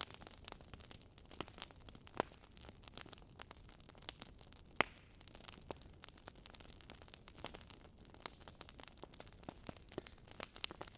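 Fire in a fireplace crackling, with irregular small pops and snaps; two louder pops stand out, about two seconds in and near the middle.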